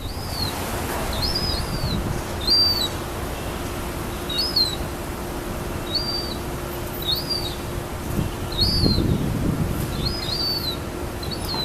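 Gull chicks giving thin, high begging peeps, about one a second and sometimes two in quick succession, the calls of young seagulls asking for food. Wind noise rumbles underneath.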